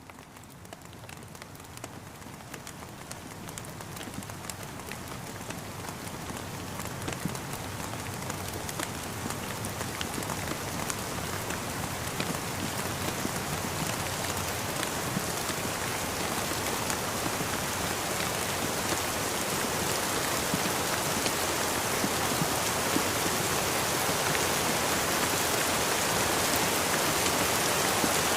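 Steady rain falling, a dense hiss with scattered raindrop ticks. It fades in from near silence and grows steadily louder over the whole stretch.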